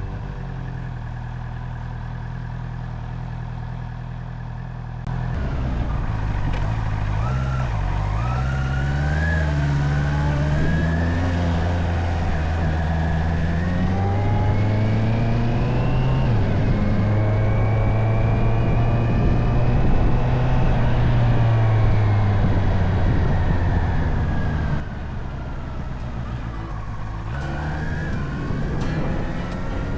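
Honda CB650R inline-four engine running under way, its pitch rising and falling through throttle and gear changes. It climbs slowly for several seconds, drops back suddenly about three-quarters of the way through, then picks up again.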